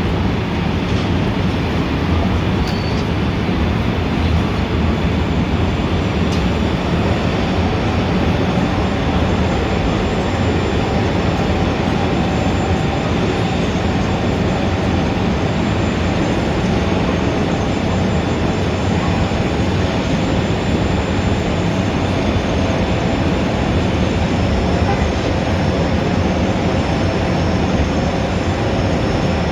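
Dense city traffic noise: a steady, unbroken rumble of many vehicles, heavy in the low end. A faint high whine runs through it from about seven seconds in.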